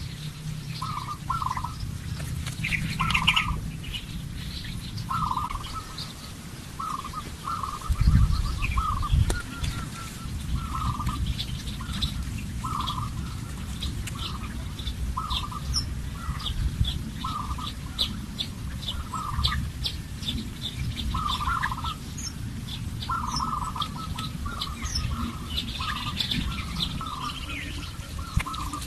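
Birds calling outdoors: short calls repeating every half second to a second throughout, with quick high chirps in the middle stretch. A loud low rumble comes about eight seconds in.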